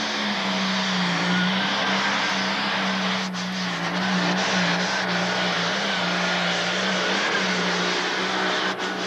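Pro stock pulling tractor's turbocharged diesel engine running hard at full throttle during a pull. The loud engine note holds nearly steady in pitch, with a thin whine above it.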